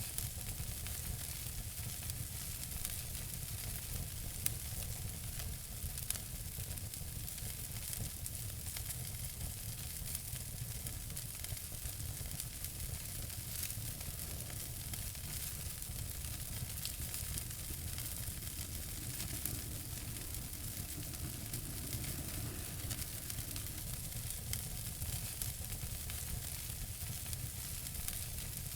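Wood fire burning in a fireplace: a steady hiss and low rumble with small crackles and sharp pops scattered throughout.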